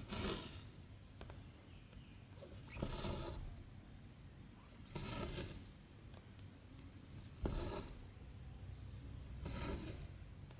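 Cotton embroidery thread being pulled through 14-count cross-stitch fabric: five rasping pulls, one about every two and a half seconds.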